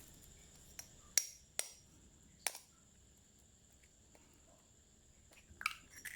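A few light clicks and taps of kitchen utensils being handled, spaced irregularly, with a small cluster near the end.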